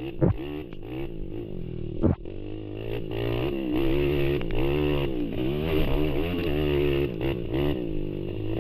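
ATV engines racing, revving up and down again and again as they rise and fall in pitch, with two sharp knocks in the first two seconds.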